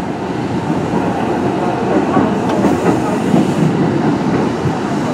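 Kintetsu 1420 series electric train, the Mitsubishi GTO-VVVF inverter prototype, running along the line, heard from on board: steady noise of the wheels on the track.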